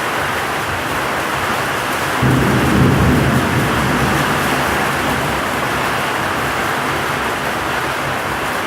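Heavy rain pouring steadily in a thunderstorm, with a low rumble of thunder that swells about two seconds in and fades back into the rain a second or two later.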